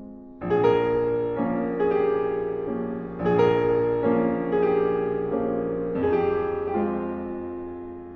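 Background music: piano chords struck one after another, each ringing and slowly fading before the next.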